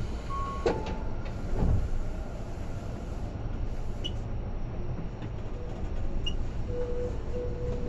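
Tobu 10030 series electric train running, heard from inside the car: a steady low rumble of wheels on rail, with a few sharp knocks in the first two seconds.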